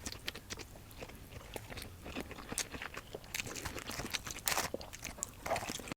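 Close-miked chewing with a quick, irregular run of small crunchy, crackly clicks.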